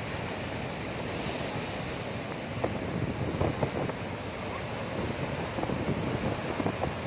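Sea waves washing and surging, with wind rumbling on the microphone and brief sharper sounds through the second half.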